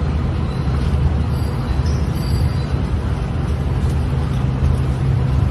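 Steady low rumble with hiss over it, starting abruptly as music cuts off.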